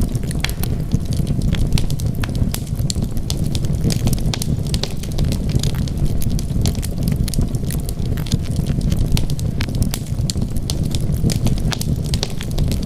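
Wood fire burning in a fireplace: a steady low rumble of flames with frequent, irregular crackles and pops from the burning wood.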